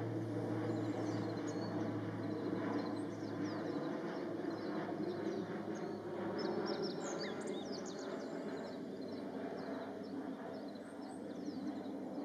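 Small birds giving many short, thin, high-pitched calls and chips, scattered and unevenly spaced, over a steady low hum.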